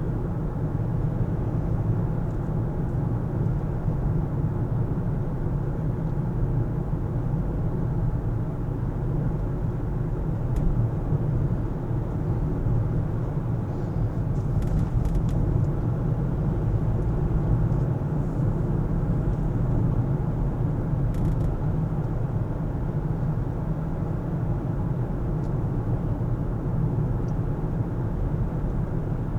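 Car driving: a steady, low rumble of engine and road noise, with a few faint ticks here and there.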